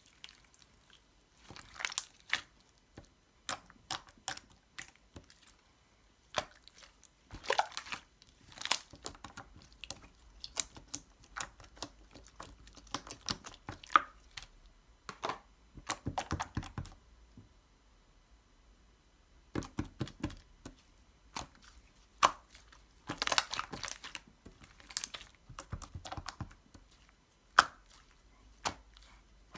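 Irregular bursts of crunching, crinkling and crackling close to the microphone, with a pause of about two seconds a little past the middle.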